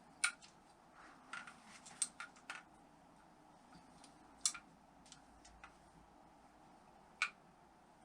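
Sharp clicks and knocks of metal engine parts and tools being handled during reassembly of a Honda XL600 single-cylinder engine. There are about six of them, irregularly spaced, with the strongest near the start, in the middle and near the end.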